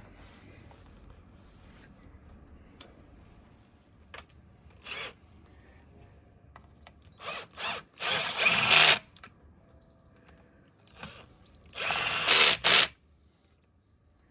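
Power drill running in a few short bursts, then two runs of about a second each, while a starter motor is fitted back into a motorcycle engine.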